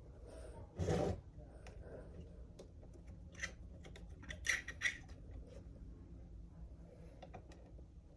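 Small hard parts and tools being handled on a workbench: a short scrape about a second in, then a few sharp light clicks and taps.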